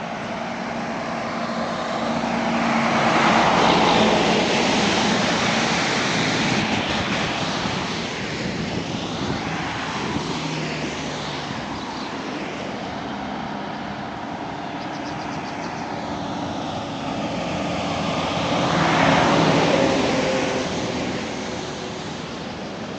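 Road traffic: a steady hum of passing vehicles, with two loud pass-bys that swell and fade over a few seconds, one a few seconds in and one near the end.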